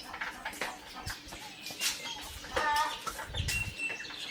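Short clucking bird calls, like a backyard hen, with scattered clicks and knocks.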